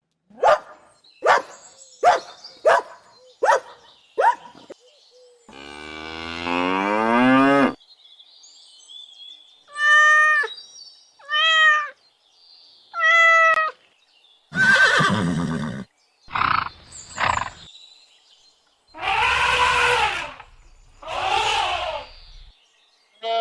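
A string of different animal calls one after another: six short sharp calls, then a long pitched call, three short pitched calls, and several longer, noisier calls near the end.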